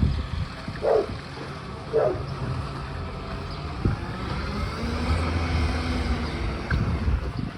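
Garbage truck at work: two short knocks in the first two seconds, then the engine's low rumble swells and holds for a few seconds.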